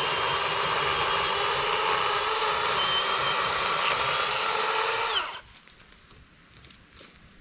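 Worx 40-volt cordless electric chainsaw with an 18-inch Oregon bar running at full speed and cutting up into the underside of a downed red oak log, then stopping suddenly about five seconds in. Faint rustling and footsteps follow.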